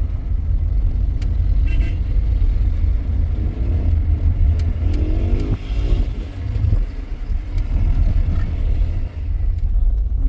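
A car on the move, heard steadily with a low engine and road drone.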